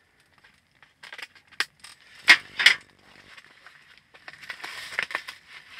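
Clinks and knocks of cooking gear and utensils being handled, the two loudest close together about two and a half seconds in, followed by rustling.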